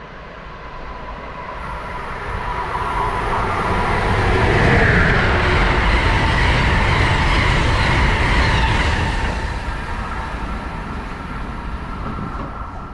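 A train passing at speed: the rush of wheels on rail builds, is loudest about five to eight seconds in, then fades, with a steady whine running through it.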